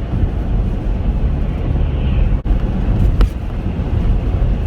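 Steady low road and engine rumble inside the cabin of a moving Chevrolet Captiva. The sound briefly cuts out about two and a half seconds in, and a faint tick follows a moment later.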